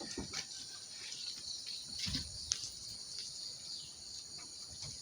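A steady, high-pitched chorus of insects such as crickets, with a few faint scattered knocks and one short sharp click about two and a half seconds in.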